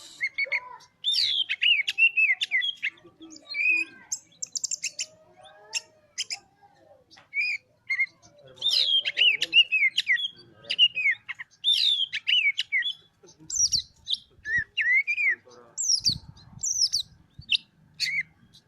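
Oriental magpie-robin (kacer) in full song: long, varied phrases of rapid whistles and chirps, one after another with short pauses.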